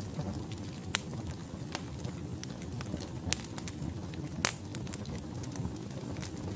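Logs burning in a fireplace: a steady low rumble of the fire with scattered sharp crackles and pops, three louder pops standing out about one, three and four and a half seconds in.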